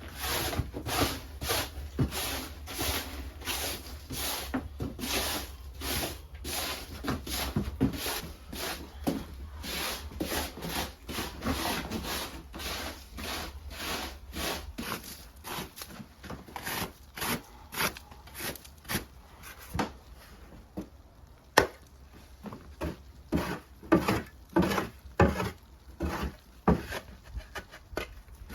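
Wood being worked with a hand tool, rhythmic scraping strokes about two a second. The strokes slow and turn uneven after the middle, with one sharp knock about three-quarters of the way through.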